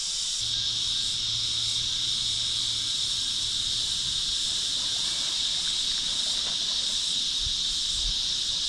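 A chorus of cicadas droning steadily and high-pitched, with no break.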